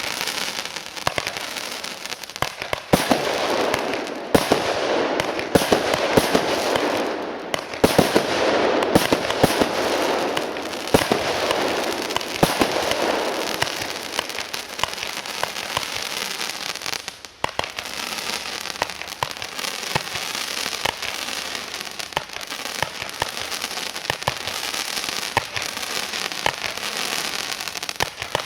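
Weco 'Lightning' compound firework battery firing: a rapid string of sharp bangs over continuous crackling, loudest in the first half.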